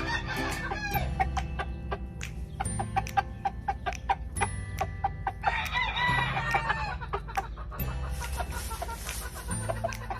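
Game roosters crowing, one crow right at the start and a longer, louder crow about halfway through, with clucking between.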